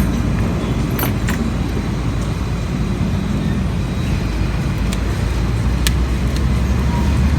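Car engine running steadily, a low rumble, with a few sharp clicks.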